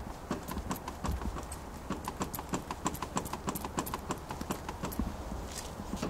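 Mazda6 on the move, heard from the car: a fast run of light clicks and knocks, several a second, over a steady low road rumble.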